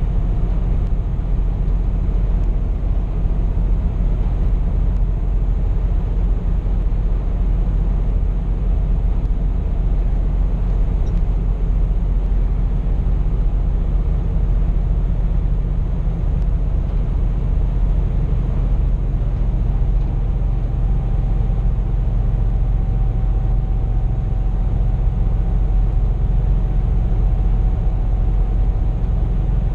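Scania P420 truck heard from inside the cab while driving: steady low engine and road rumble. A faint thin whine joins about two-thirds of the way in.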